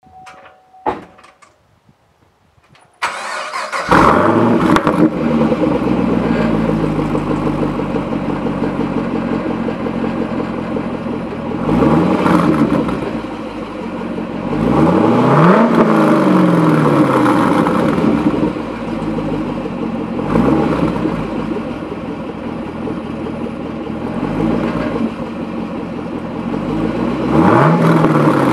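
2014 Chevrolet Camaro SS's 6.2-litre V8 cranking and starting about three seconds in, then idling through its exhaust. It is revved several times, the pitch rising and falling back each time, with the biggest rev about halfway through.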